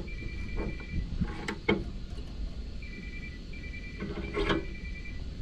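Mobile phone ringing, an electronic ring of paired high tones that comes and goes in short pulses. A few sharp knocks of metal parts being handled, about a second and a half in and again near the end.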